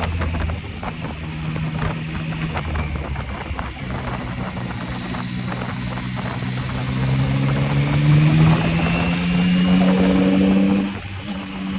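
Yamaha MT-09's three-cylinder engine under way, pulling hard with its note climbing steadily in pitch for several seconds, then dropping off sharply near the end as the throttle closes.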